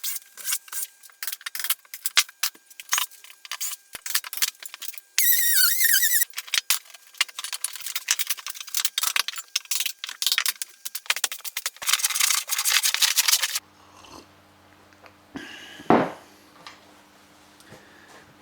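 Old wooden door threshold being pried out: a busy run of clicks, creaks and scraping, with a high wavering squeal about five seconds in. About three-quarters of the way through the sound changes to a steady low hum with a single thump.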